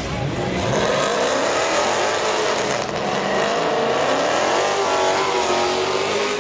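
Car engine revving hard and held at high revs, its pitch wavering up and down, starting abruptly.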